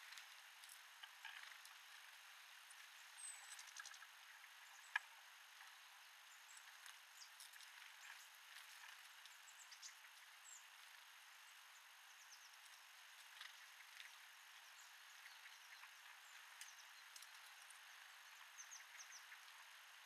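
Small birds at a feeder giving faint, high, short chirps and calls over a steady hiss, with one sharp click about five seconds in.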